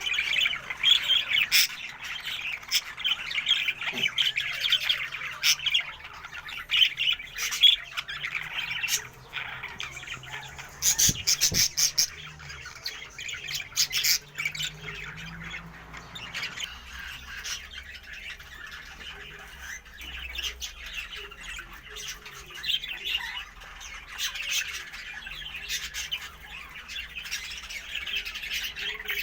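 Caged pet birds, cockatiels among them, chattering and squawking together non-stop, with many sharp, high chirps over the chatter. The calls are busiest and loudest in the first half.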